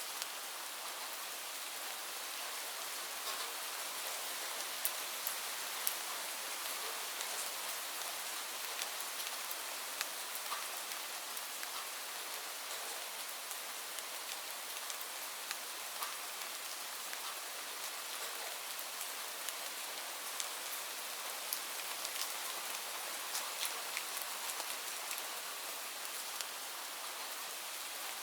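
Steady rain falling, an even hiss with many individual drops ticking sharply on a surface throughout.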